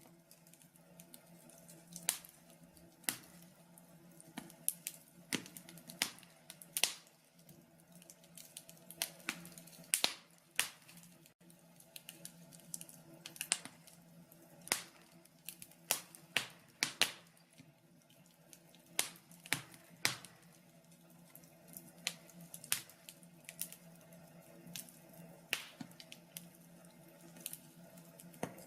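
Logs burning in a wood-burning stove, crackling with irregular sharp pops and snaps, over a faint steady hum.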